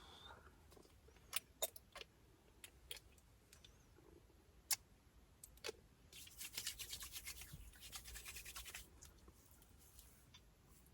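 Scattered small clicks and handling noises, then about three seconds of rapid back-and-forth scrubbing or rubbing strokes a little past the middle.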